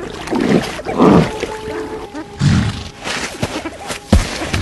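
A flock of sandgrouse at a desert waterhole: several loud, rustling bursts of wing flapping with bird sounds, over background music with held notes.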